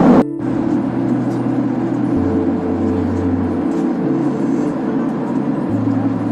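Steady airliner cabin noise from a Boeing 767-300ER in flight, cutting in abruptly near the start. Under it, sustained low tones step to a new pitch every one and a half to two seconds.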